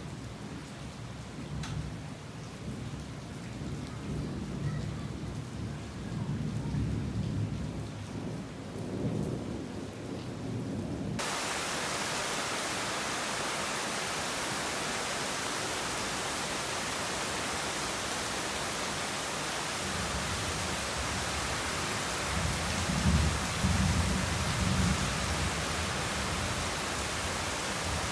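Thunder rumbling low under light rain. About eleven seconds in, a loud, steady hiss of heavy rain cuts in suddenly, and a second roll of thunder swells and fades near the end.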